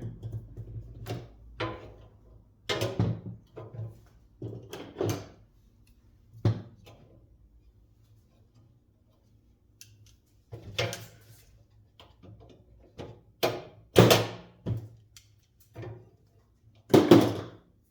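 Fan parts and tools being handled and set down on a workbench: irregular knocks and clunks, some with a short ring, the loudest two near the end.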